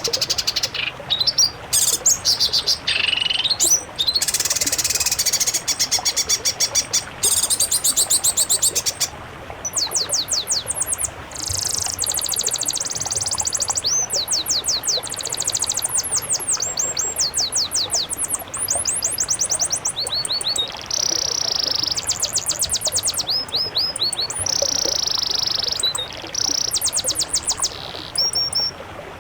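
Caged songbirds singing a mixed-species tutor song: fast runs of high, repeated chirps and trills, many notes a second, broken by short pauses, with a few longer buzzy notes in the second half.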